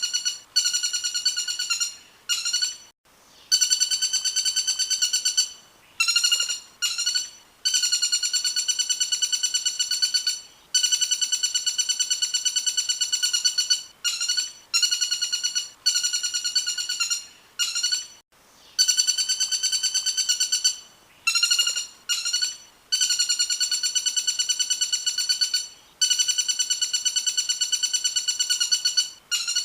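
Songbird song from a training recording: a rapid trill on one steady pitch, repeated in bouts of two to four seconds with short breaks. The first few seconds hold only brief short notes.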